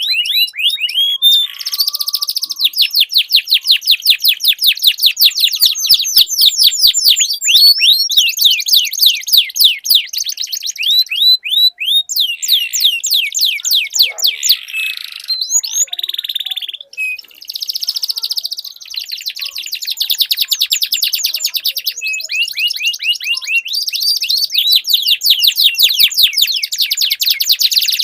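Domestic canaries singing long rolling trills, rapid runs of repeated high notes at about ten a second, with brief breaks near the middle.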